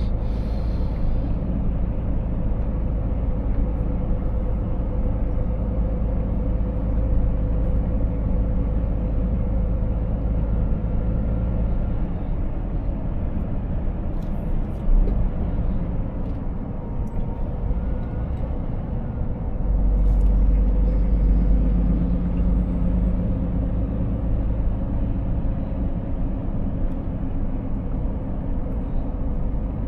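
Scania 500S truck's 13-litre inline-six diesel running on the road, a steady low rumble with road noise; the rumble swells for a couple of seconds about two-thirds of the way through, with a single knock a little before.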